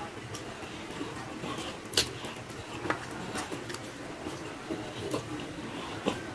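Eating sounds: a man chewing mouthfuls of rice eaten by hand, with wet lip smacks and clicks, the sharpest about two seconds in and again near the end.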